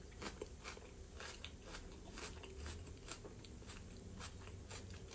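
Close-miked chewing of a mouthful of fresh salad and fried potatoes: faint, irregular clicks of the mouth, a few a second.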